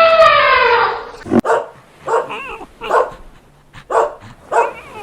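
A dog barking, about five short barks roughly a second apart. They follow a loud, sustained horn-like tone that drops in pitch and stops about a second in.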